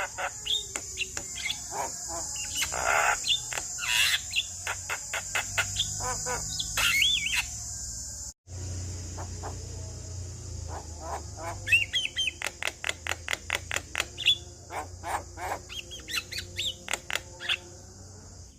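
Male Javan myna singing: fast runs of dry clicks and rattles mixed with short whistled notes, with a steady high hiss behind. The song breaks off for an instant about eight seconds in, then resumes.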